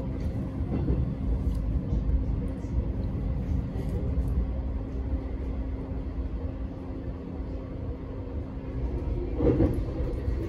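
Metro X'Trapolis electric train running along the track, heard from on board: a continuous low rumble with a steady hum over it, and a brief louder swell near the end.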